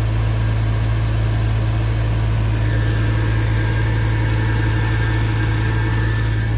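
2002 Porsche Boxster S's 3.2-litre flat-six idling steadily through an aftermarket MagnaFlow exhaust, a few minutes after a cold start.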